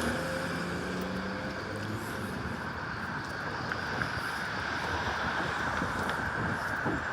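Outdoor city traffic noise with wind on the microphone; a vehicle's low engine hum fades out in the first couple of seconds.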